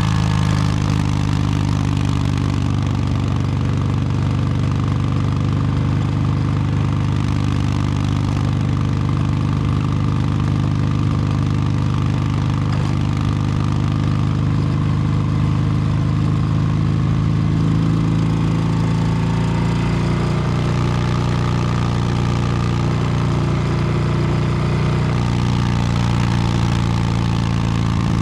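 2022 Harley-Davidson Low Rider S's Milwaukee-Eight 117 V-twin running through an S&S Superstreet 2-1 exhaust, steady for most of the stretch, with a change in pitch about 20 seconds in and again near 25 seconds.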